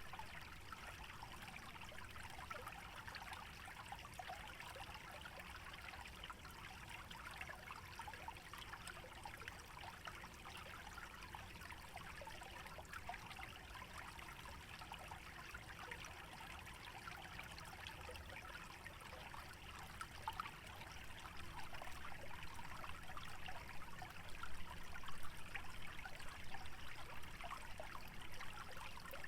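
Shallow stream water trickling and burbling through a wetland, a steady, fine-textured flow that grows somewhat louder about two-thirds of the way through.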